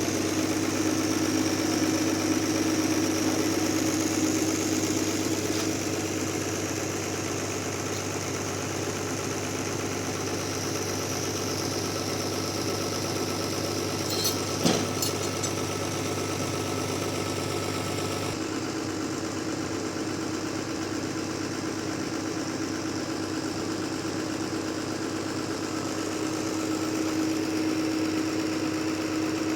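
Sawmill machinery running with a steady engine hum. A single sharp knock about halfway through, and the sound's tone shifts abruptly about two-thirds of the way in.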